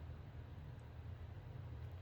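Quiet steady low hum of room tone, with no distinct sound event.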